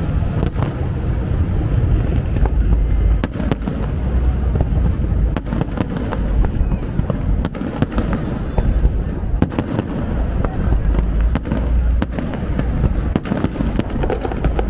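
Fireworks going off: a continuous low rumble of booms with many sharp cracks scattered irregularly throughout.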